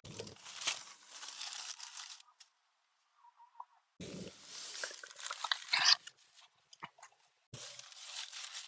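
Rustling and crinkling of nesting pads being handled, in three bouts of about two seconds each with short pauses between.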